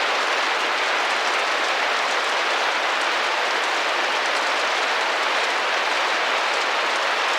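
Rain drumming gently and steadily against a window pane: an even hiss of many small drops, with no single louder strike.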